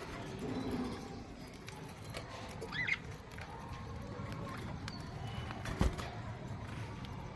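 Budgerigars: one short rising chirp about three seconds in, with scattered light clicks and one sharp knock near six seconds, over steady low background noise.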